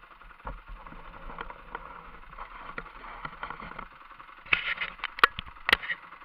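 Kawasaki KMX 125's single-cylinder two-stroke engine idling, with a burst of loud clicks and knocks about four and a half to six seconds in.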